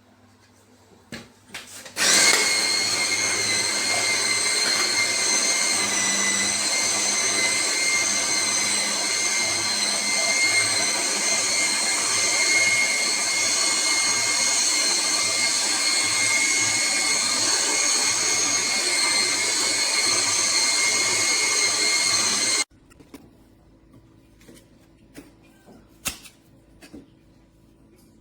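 AMZCHEF juicer's electric motor switching on about two seconds in and running steadily with a high whine for some twenty seconds, then cutting off abruptly. Faint clicks before and after.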